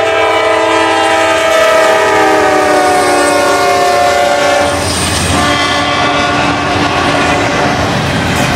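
Diesel freight locomotive's multi-note air horn blowing a chord as the train approaches and passes close by, the chord sliding down in pitch as the locomotive goes past and dying away about five seconds in. After that come the rumble of the passing locomotives and the clatter of intermodal container cars rolling over the rails.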